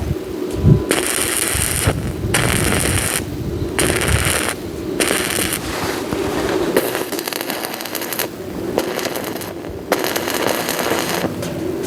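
Electric arc welding: a loud crackling sizzle in stretches of one to three seconds, stopping for a moment between each as the arc is broken and struck again.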